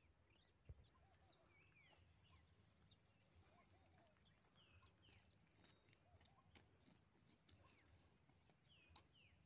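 Near silence with faint birds calling: short whistled notes that slide down in pitch, scattered every second or so.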